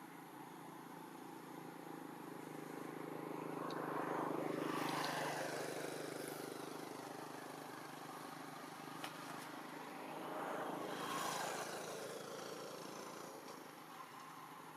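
Two motor vehicles passing by one after the other, each rising and then fading, the first about four seconds in and the second about eleven seconds in.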